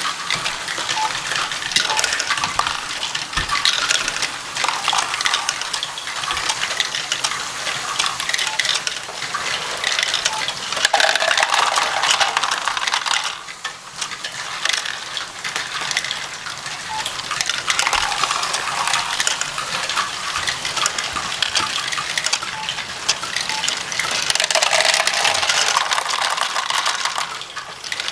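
Plastic Lego bricks clattering against one another as a pile of pieces is handled, a dense continuous rattle of small sharp clicks that swells louder twice.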